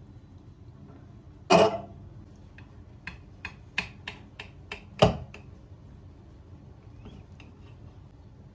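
One short, loud sound about one and a half seconds in, then a quick run of light clicks and taps, about three a second, ending in a heavier knock.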